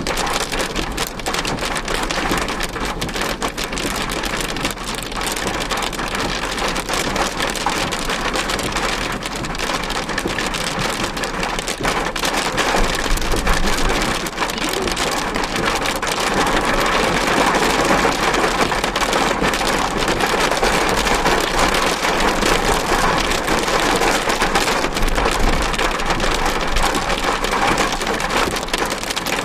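Heavy rain falling on a car's roof and windshield, heard from inside the car as a dense, steady patter of drops. It grows a little louder about halfway through.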